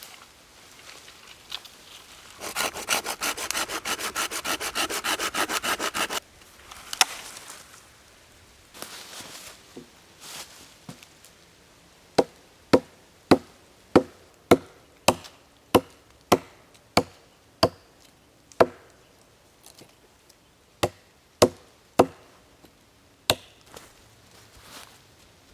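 A hand saw cutting through a wooden stick with quick strokes for about four seconds. After a pause comes a long run of sharp, evenly spaced blows on wood, just under two a second, with a few more spaced out near the end.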